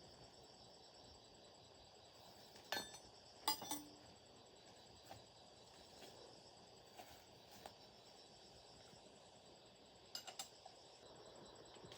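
Faint, steady insect chirring, broken by a few sharp clicks or knocks: two close together about three seconds in and a short cluster about ten seconds in.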